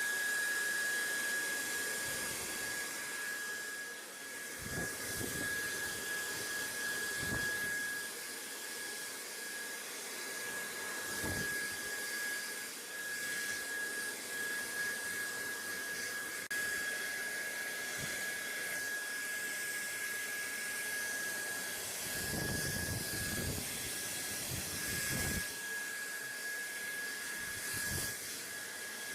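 BaByliss hair dryer running steadily: a continuous airflow hiss with a steady high whine, and a few brief low rumbles.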